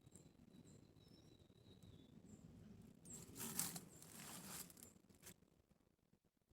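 Near silence: faint outdoor ambience with short, high chirps now and then, and a soft hiss that swells for about two seconds in the middle.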